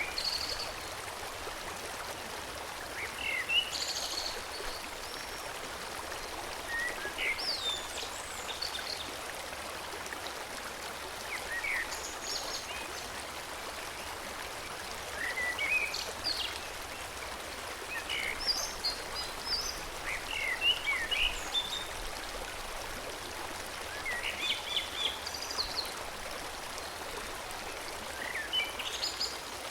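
Forest stream flowing steadily, with a songbird singing short, high phrases every few seconds.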